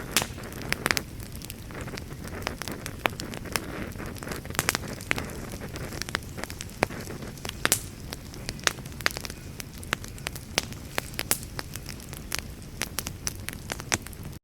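Wood campfire crackling, with sharp irregular pops and snaps, several a second, over a steady low rumble of burning. It cuts off abruptly at the end.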